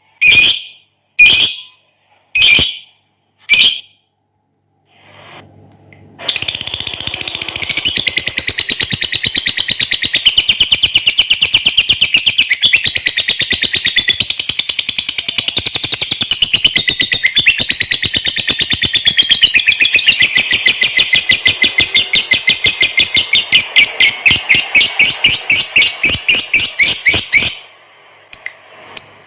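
A lovebird gives a few short shrill calls, then breaks into a long, very rapid chattering trill (the 'ngekek panjang') for about twenty seconds, before returning to short calls near the end.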